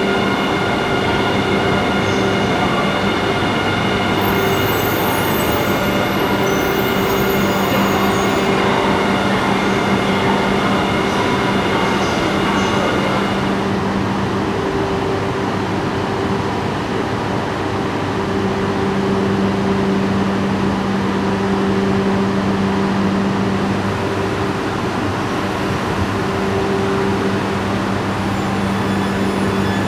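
E4 'Max' and E3 'Tsubasa' coupled Shinkansen train pulling into the platform, with a steady hum and several higher whining tones that stop about 13 to 14 seconds in. A lower hum carries on after that.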